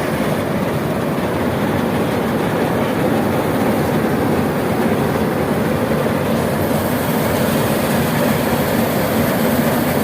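ACI mini combine harvester running steadily in a paddy field, its engine and machinery making a dense, unbroken drone.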